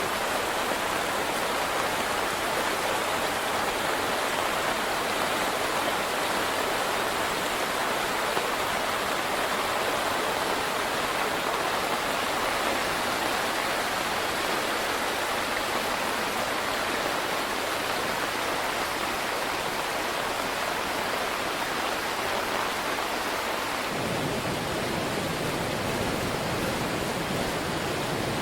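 Fast-flowing water of a river swollen by heavy rain, a steady rushing noise. Near the end a deeper rumbling noise joins in.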